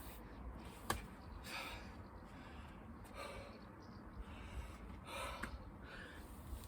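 A man breathing hard from exertion during a burpee and chin-up workout, with a forceful breath every second or two. A single sharp knock about a second in.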